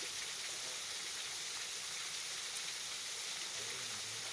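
Waterfall: steady rushing water spray.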